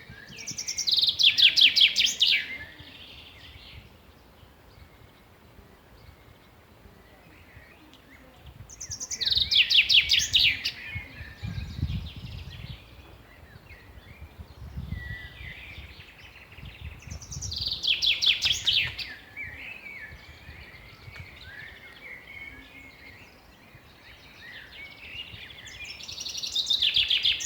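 Songbird singing: four loud phrases of rapid notes, one about every eight seconds, with quieter chirps in between.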